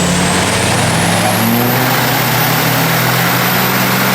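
A car engine held at high revs with a loud, rushing exhaust and tyre noise, as in a burnout throwing smoke. A high whine rises and levels off about two seconds in.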